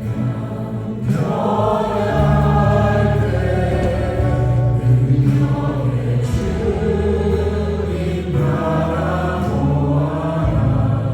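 Church worship band of keyboards, drums and acoustic guitar accompanying a group of vocalists singing a slow praise song in Korean; the voices come in about a second in over sustained keyboard notes.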